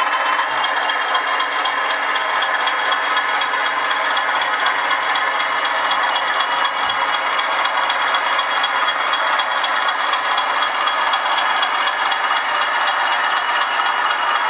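A Bachmann OO gauge Class 20 model locomotive running across a crossover, with a steady rattling running sound and a few faint clicks.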